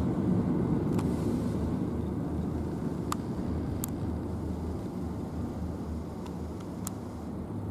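Low, steady rumble of a train at a station platform, slowly growing fainter, with a few faint clicks.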